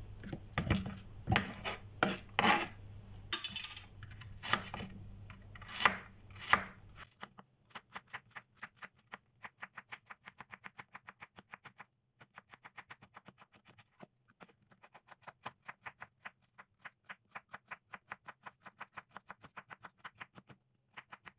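Kitchen knife slicing halved bitter melon (ampalaya) crosswise on a wooden chopping board. After some uneven knocks and scrapes in the first few seconds, the knife settles into a quick, steady run of taps on the board, about four a second, broken by a couple of short pauses.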